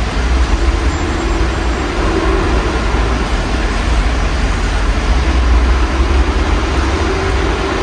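Steady rain heard through an open window, with a low rumble of city traffic underneath and a faint engine hum swelling about two seconds in and again near the end.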